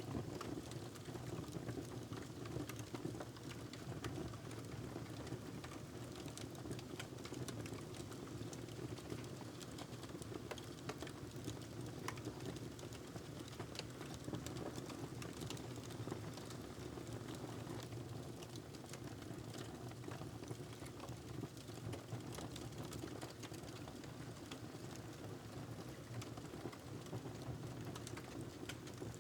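Wood fire crackling in a fireplace: a steady low rumble with many small sharp pops and snaps scattered throughout.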